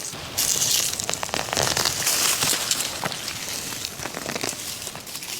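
Close rustling and crackling of dry grass and leaves as wild onions are pulled and gathered by hand. It is densest in the first few seconds and then softer.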